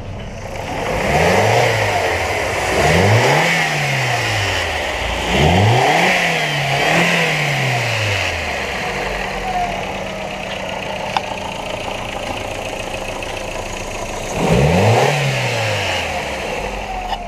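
2002 Audi A4 1.8L four-cylinder engine idling and being blipped up and falling back to idle five times: two pairs of revs in the first half, then one more near the end.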